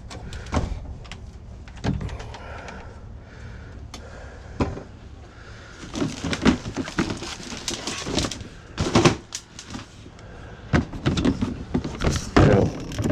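Salvaged items from a dumpster being handled and loaded, a run of knocks, bangs and clatters that grows busier about halfway through, over a low steady rumble.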